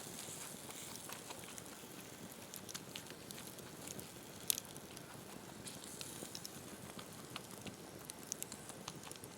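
Wood campfire crackling: a steady hiss with scattered sharp snaps and one louder pop about four and a half seconds in.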